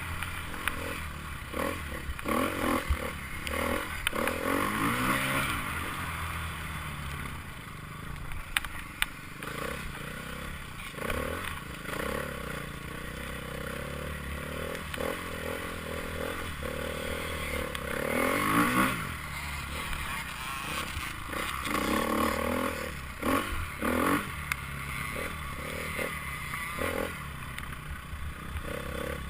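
Enduro dirt-bike engines revving and riding past, rising in pitch as a bike accelerates about four seconds in and again past the middle, with clattering in between.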